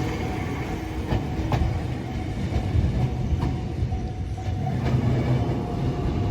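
Electric train running on the rails: a steady heavy rumble with a few sharp wheel clicks over rail joints.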